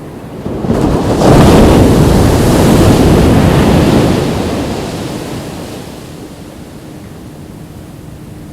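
Ocean wave breaking on a beach: surf swells suddenly about a second in, crashes at its loudest for a few seconds, then washes out and fades back to a low steady surf hiss by about six seconds.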